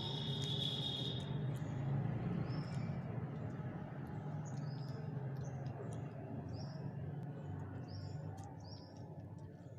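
Small birds chirping: many short, high chirps at irregular intervals over a steady low rumble, with a steady high whistle-like tone for about the first second.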